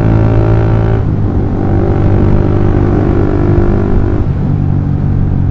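Honda CB150R's single-cylinder engine running through a DOS Muffler full-system aftermarket exhaust while riding at moderate speed. The note is steady; its upper tone fades about a second in and the pitch drops a little after about four seconds.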